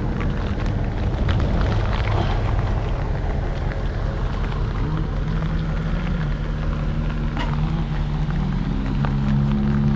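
Tractor engine running steadily, its pitch stepping up a little about halfway through and again near the end as it is revved, with scattered sharp ticks and a haze of noise over it.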